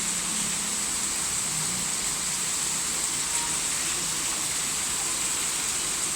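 Rain falling in a steady downpour, an even hiss that holds at the same level throughout.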